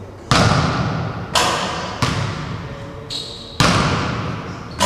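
Skateboard rolling and banging on ramps: five hard hits of deck, trucks and wheels at uneven intervals, each ringing on and fading over a second or so, with the wheels' rolling noise between them and a brief high squeal about three seconds in.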